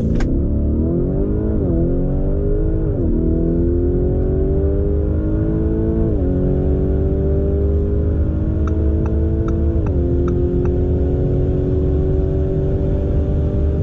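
Twin-turbocharged V8 performance SUV accelerating flat out from a standstill, its engine note climbing through the gears. There are four upshifts, at about 1.5, 3, 6 and 10 seconds, and each gear lasts longer than the one before. A few faint sharp ticks come around the shift near 10 seconds.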